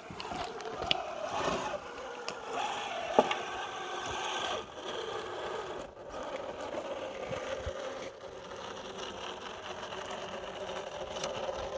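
Electric motor and gear drivetrain of a 1/10-scale Traxxas TRX-4 Sport RC crawler whining steadily as it crawls, with a few sharp clicks and scrapes from the truck working over the course.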